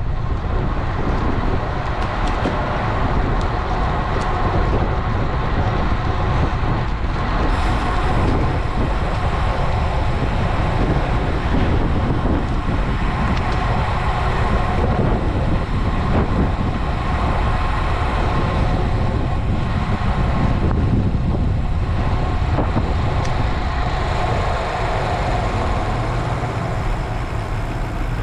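Steady rush of wind and road noise from a road bike in motion, picked up by a helmet- or bike-mounted action camera, with motor traffic alongside.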